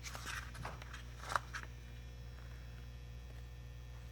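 A few faint clicks and rustles of handling over a steady low electrical hum, with one sharper click about a second in.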